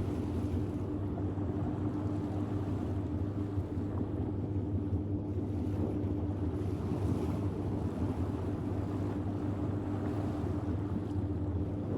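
Sailboat under way in light wind at sea: a steady low hum with wind on the microphone and water noise, unchanging throughout.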